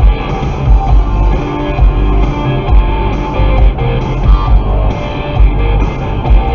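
Rock song playing on the radio: guitar over a steady drum beat.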